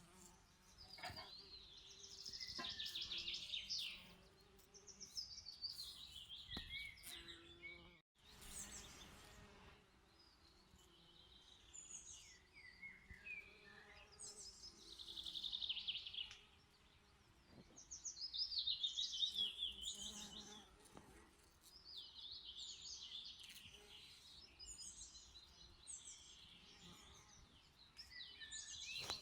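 Songbirds singing in short, twittering phrases that come every few seconds, with a brief cut-out of all sound about eight seconds in.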